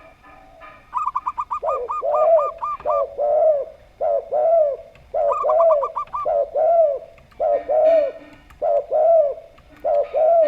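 A zebra dove (perkutut) gives quick runs of short, higher coos, about a second in and again about five seconds in, over a spotted dove (tekukur) repeating lower, arched coos, mostly in twos.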